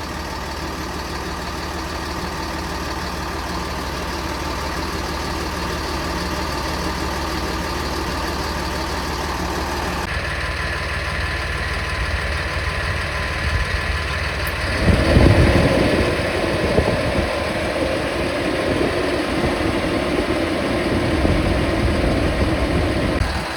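School bus engine idling steadily, running the chassis air-conditioning compressor while refrigerant is charged. About fifteen seconds in, a louder rushing sound joins it and carries on until just before the end.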